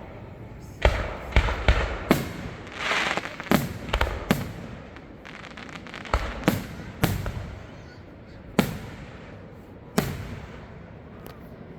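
Fireworks show: about a dozen sharp bangs from shells bursting overhead, each with a short echoing tail. They come close together in the first four seconds, with crackling around the third second, and then space out, the last at about ten seconds.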